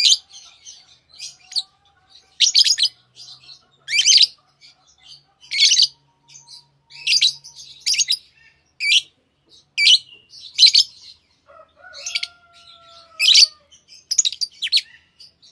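Small pet parrots, kept as lovebirds, giving short sharp chirps about once a second, some of them in quick pairs.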